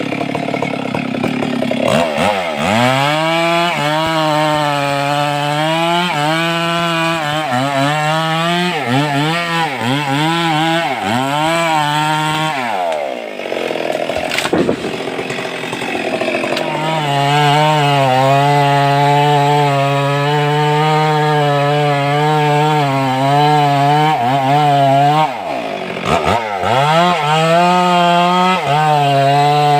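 Stihl 382 two-stroke chainsaw cutting albizia wood at high revs, its pitch sagging and recovering about once a second as the chain bites. There is a short break around the middle, then a steady high pitch, and it sags again near the end.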